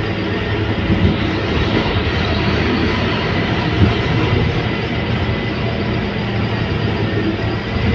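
Scania K280UB city bus driving: steady diesel engine drone with road and body noise. A single brief knock comes a little before four seconds in.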